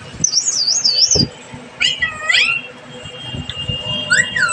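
Pet parrot whistling and calling: a fast warbling whistle about half a second in, a few gliding calls around two seconds in followed by a thin held whistle, and a swooping call near the end. A soft low thump about a second in.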